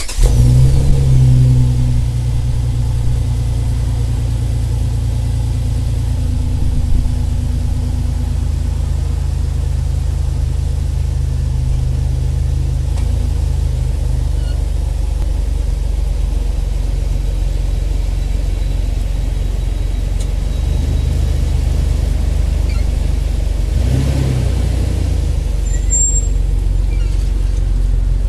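Jeep Wrangler TJ engine running through a Dynomax Super Turbo exhaust: loudest in the first two seconds, then settling into a steady, deep idle, with one short blip of the throttle about 24 seconds in.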